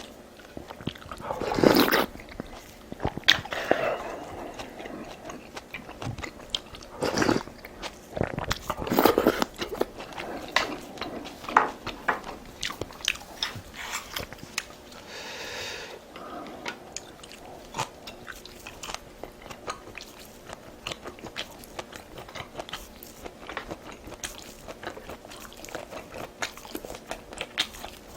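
Close-miked eating sounds: a person chewing and crunching food, with many small wet clicks and smacks and a few louder bites in the first ten seconds.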